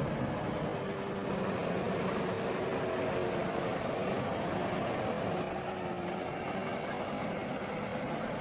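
Diesel engine of heavy earthmoving machinery running steadily, with a faint wavering whine over it.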